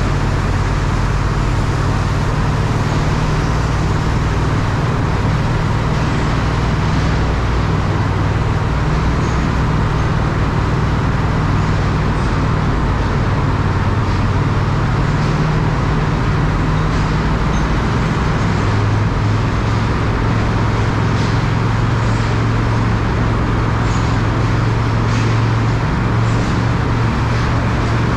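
Triumph Speed Twin parallel-twin motorcycle engine running steadily while riding, under a continuous hiss of wind and road noise. The engine note changes pitch about two-thirds of the way through.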